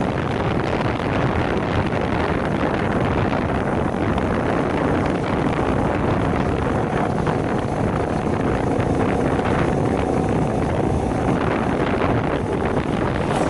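Heavy wind buffeting on an unshielded microphone, with a small 50cc moped engine running steadily underneath.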